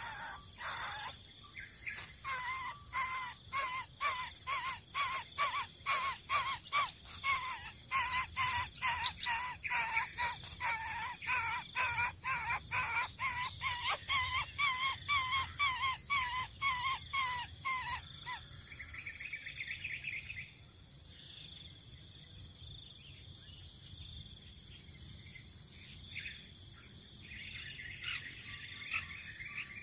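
Coucal chick giving a long series of harsh, rasping calls, about three a second, which stops about eighteen seconds in, with a steady chirring of insects underneath. Two softer, higher buzzy calls follow near the middle and end.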